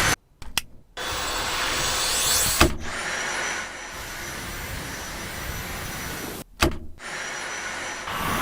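A stick vacuum's motor running: a steady rushing sound with a high whine. It is broken by a click and a brief cut, after which the whine starts up again and settles.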